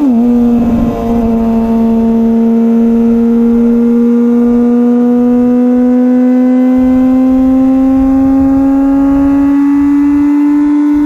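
2004 Honda CBR1000RR Fireblade's inline-four running through a Jardine titanium exhaust under load. Its note drops sharply right at the start, as on an upshift, then climbs slowly and steadily as the bike gathers speed in gear.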